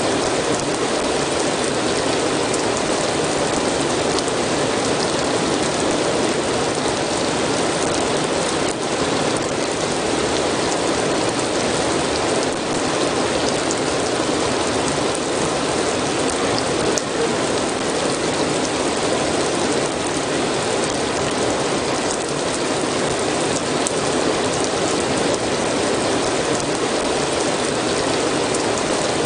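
Steady, dense rain falling, with many fine drop patters over an even rushing hiss.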